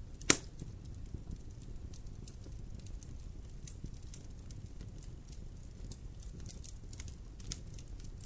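Wood fire crackling in a fireplace: a low steady rumble with scattered small crackles, and one loud pop just after the start.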